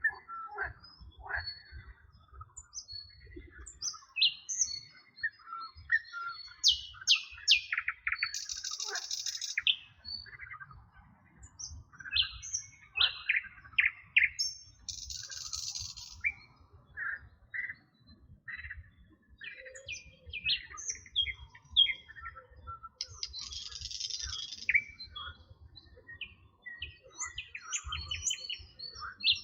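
Several songbirds singing at once, a dense mix of short chirps, whistles and quick trills, with a buzzy call breaking in three times.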